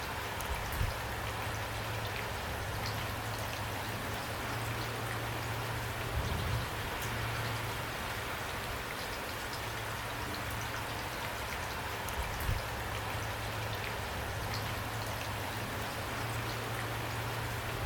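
Steady rainfall, an even hiss of rain with fine individual drops ticking on a surface, and a few soft low thumps.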